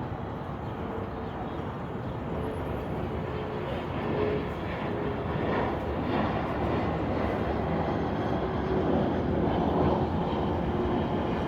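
A steady engine drone with a faint whine, slowly growing louder.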